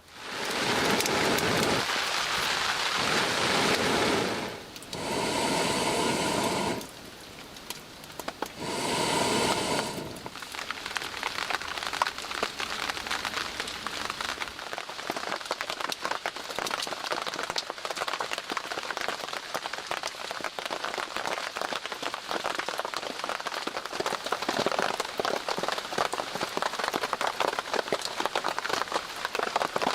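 Rain falling, a steady patter of many small drops. Three louder, rushing stretches of noise come in the first ten seconds before it settles.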